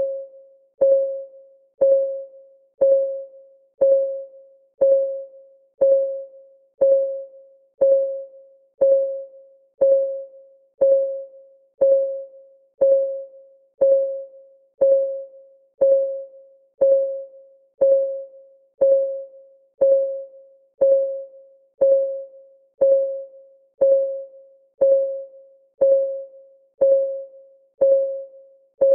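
Countdown timer's clock-ticking sound: a short tick once a second, each with a brief pitched ring that fades quickly, in a steady, even rhythm.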